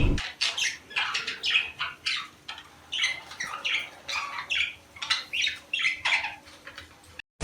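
Budgerigars chirping and squawking in a quick run of short calls, about three a second. It is the kind of budgie chatter played to bring the birds into breeding.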